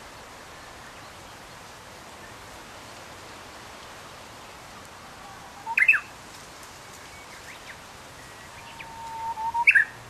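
A wild songbird sings twice over a steady background hiss, about six seconds in and again near the end. Each song is a held whistle that ends in a quick, loud burst of higher notes.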